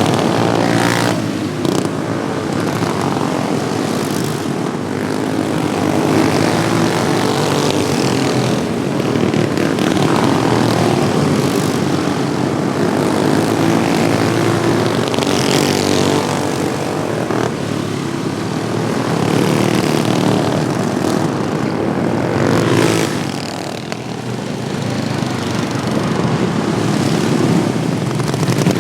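Modified Wheel Horse racing lawnmowers running on the track as a pack, with engines sounding throughout and about half a dozen louder pass-bys as machines go past.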